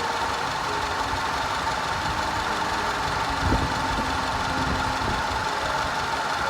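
Audi 2.0 TFSI turbocharged four-cylinder engine idling steadily, with a single thump about three and a half seconds in.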